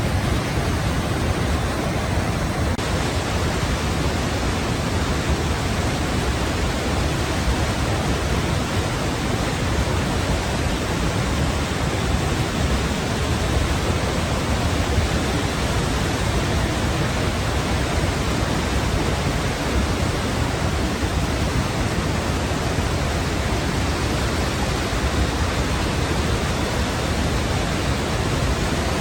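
Waterfall: a steady, unbroken rush of falling water, with a slight change in tone about three seconds in.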